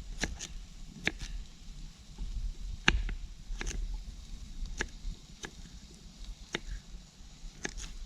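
A knife chopping a swede into chunks: about ten sharp, irregularly spaced knocks of the blade going through and hitting the board.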